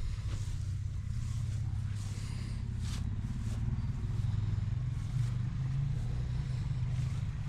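An engine running steadily at idle, a low even rumble, with a faint click or two.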